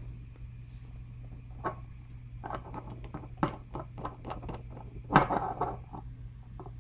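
Irregular light clicks and taps of small objects being handled on a tabletop, the loudest a little after five seconds, over a steady low electrical hum.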